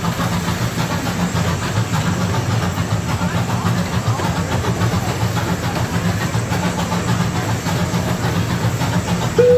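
Amusement-park tour train running along its track: a steady rumble and hiss from the wheels and running gear, with faint passenger chatter under it.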